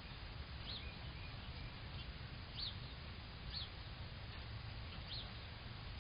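Wild birds chirping faintly: four short, high chirps spaced a second or two apart, over a steady low rumble.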